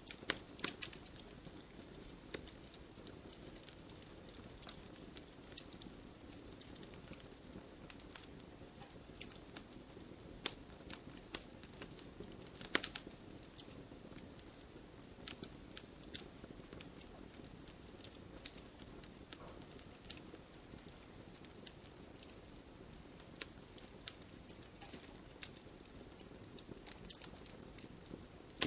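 Campfire crackling: a steady low rush of burning wood with frequent irregular pops and snaps, the loudest pop about 13 seconds in.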